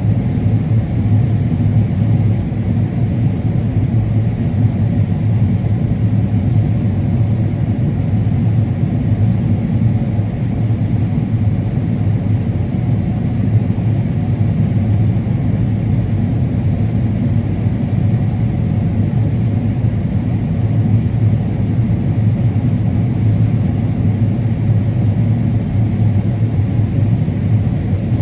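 Combine harvester running steadily while harvesting corn, heard from inside the cab: a constant low engine and machine drone.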